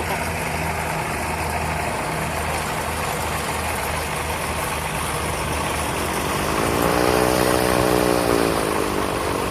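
Light aircraft engine running steadily at a low idle. Past the middle, a higher engine note swells, rising and then falling in pitch, and grows louder for about two seconds.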